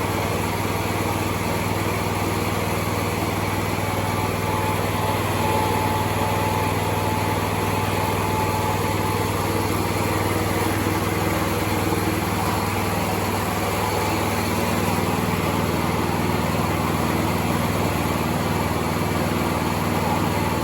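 Small new petrol engine of a home-built excavator running steadily on its first test run, driving the hydraulics. Its low note shifts slightly about two-thirds of the way through.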